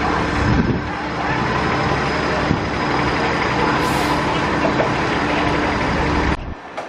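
Double-decker bus running close by as it pulls in to the stop, over wind buffeting the microphone, with a brief hiss about four seconds in. The din drops sharply near the end.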